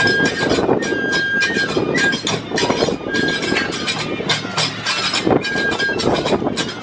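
Kagura music: a bamboo flute playing long held notes over fast, continuous clashing of hand cymbals and drum beats.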